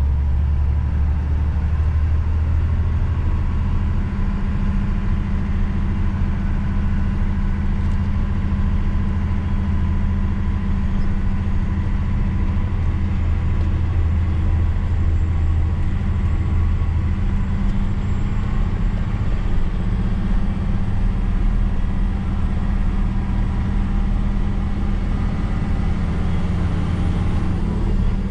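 Truck's diesel engine running steadily under way, a low, even drone with a faint steady whine above it.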